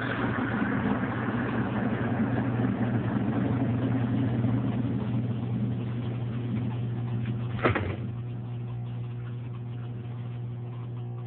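Small 5 kg washing machine running: a steady low motor hum with churning noise over it. A sharp click comes about three-quarters of the way through, after which the churning stops and a quieter steady hum goes on.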